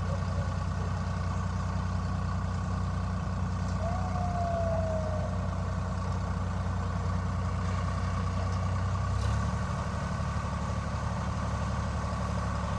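Tractor engine running steadily at a low, even idle, its note shifting slightly about nine seconds in.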